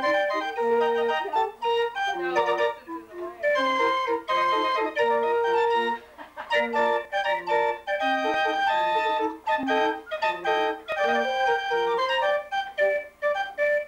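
An organ grinder's hand-cranked barrel organ playing a tune: a melody of steady held notes with a bright, pipe-like tone, with brief breaks about six seconds in and near the end.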